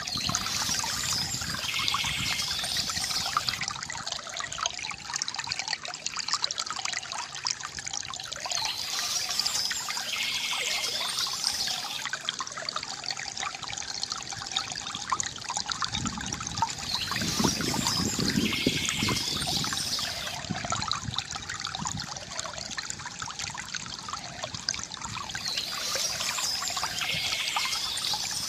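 Water trickling and gurgling steadily from a bamboo fountain, with a short high bird chirp returning about every eight seconds.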